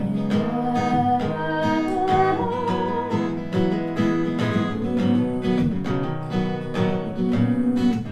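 Acoustic guitar strummed in a steady rhythm, with a sung melody over it in the first few seconds: a live song between its lyric lines.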